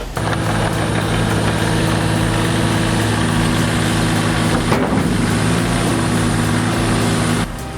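Volvo mini excavator's diesel engine running steadily. There is a brief wavering in its pitch about five seconds in, and the sound drops away shortly before the end.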